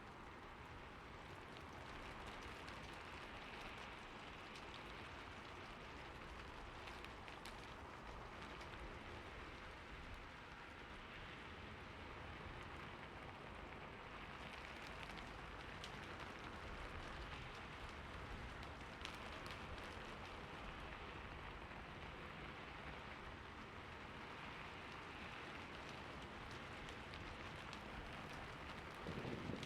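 Steady, soft rainfall with faint scattered drop ticks.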